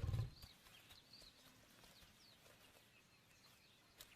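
Faint outdoor natural ambience with small birds chirping now and then. A low sound at the start dies away within half a second, and there is a single sharp click near the end.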